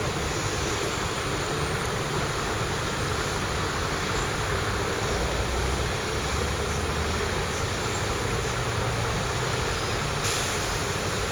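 Train moving through a railway station: a steady rumble with a low hum, with no sharp knocks or squeals standing out.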